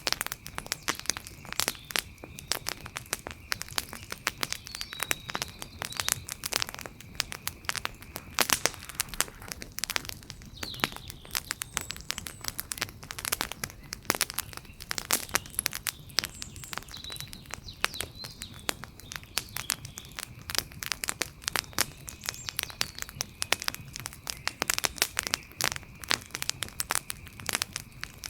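Wood fire crackling: a dense, irregular run of sharp pops and snaps, some louder than others, over a faint steady high tone.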